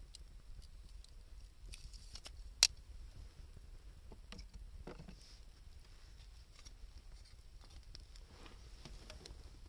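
Wood fire of scrap 2×4 lumber and scavenged wood crackling: scattered small pops, with one sharp, loud pop about two and a half seconds in.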